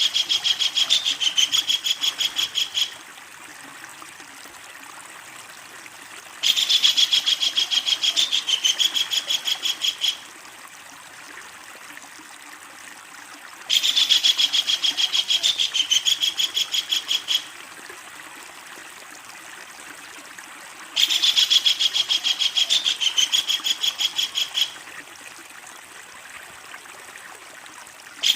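Kingfisher giving its long, loud cackling call: a fast run of sharp, evenly repeated notes lasting about four seconds, coming back about every seven seconds. A faint steady hiss fills the gaps between calls.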